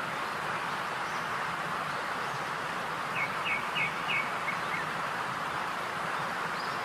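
A bird chirping a short run of about five quick, evenly spaced notes over a steady hiss, with a few faint higher whistles near the end.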